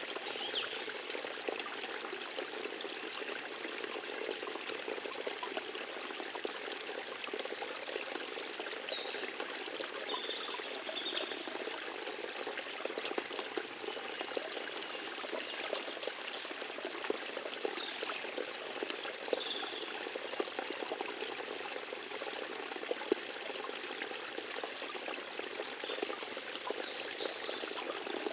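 Small forest stream trickling and babbling steadily, with a few faint high chirps scattered through.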